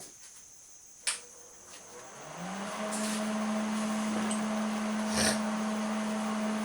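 A click about a second in, then an electric motor starts up: its hum rises briefly in pitch and settles into a steady hum with a hiss of moving air. A single knock near the middle.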